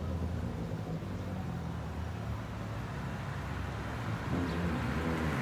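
Suzuki Bandit 650N's inline-four engine idling steadily through a straight-through (open) exhaust; about four seconds in, the revs begin to rise.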